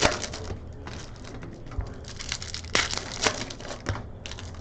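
Foil trading-card pack wrappers crinkling and cards being handled: a busy string of crackles with sharp clicks and snaps.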